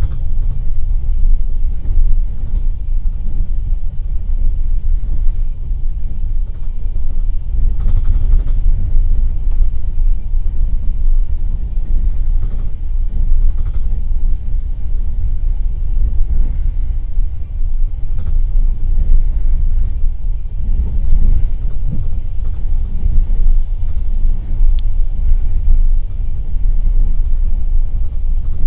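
Passenger railway carriage running at speed, a loud steady low rumble from the wheels and bogies on the track, with a few faint clicks scattered through it.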